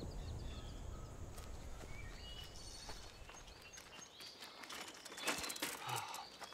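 Songbirds chirping now and then over a quiet woodland ambience, with a few short knocks about five seconds in. A low music bed fades out in the first second or so.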